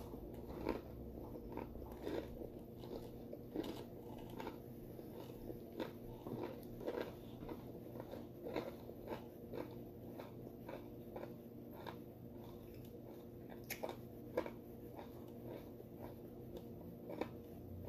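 Close-up mouth sounds of a person chewing a mouthful of burger and bread: irregular soft wet clicks and smacks, over a faint steady hum.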